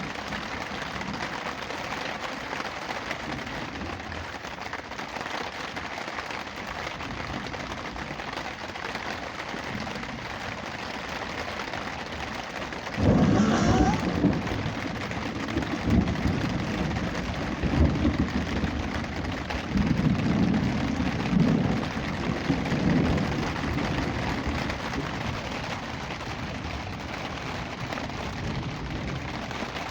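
Rain falling steadily, with a loud roll of thunder that breaks in sharply a little under halfway through and rumbles on in several swells for about ten seconds.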